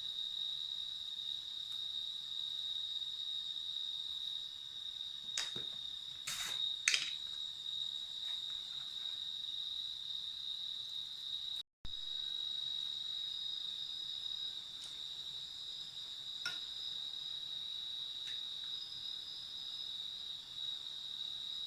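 Steady, high-pitched insect trilling. A few short clicks or knocks come about a quarter to a third of the way in, and one more later. The sound cuts out for an instant just past halfway.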